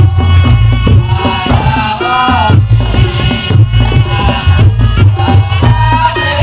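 Reog Ponorogo music played loudly: the slompret, a reedy shawm, plays a bending, wavering melody over a steady beat of drums, a deep gong and rattling percussion.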